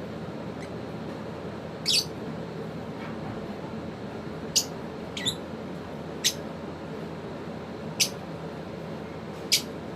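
Pet lovebirds giving short, sharp, high-pitched chirps, six in all, one every second or two, over a steady low background noise.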